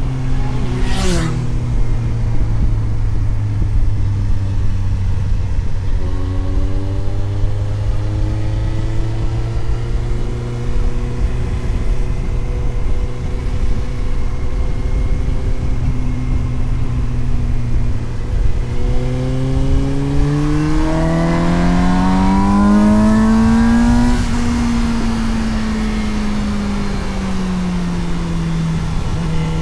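Suzuki GSX-S750 inline-four engine under way at steady low revs, with wind noise on the onboard microphone. About two-thirds in it revs up smoothly to a peak, then the revs fall back and settle as the throttle closes. A brief falling whine sweeps down about a second in.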